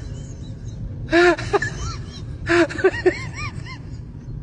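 A voice gives several short high-pitched calls, each rising and falling in pitch, over a steady low rumble.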